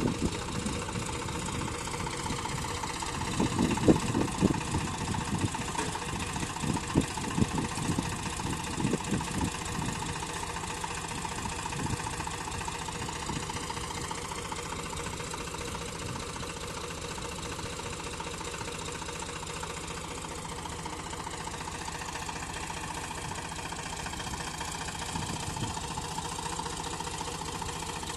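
Tractor diesel engine running, louder and uneven with irregular pulses for several seconds near the start, then settling into a steady, even run.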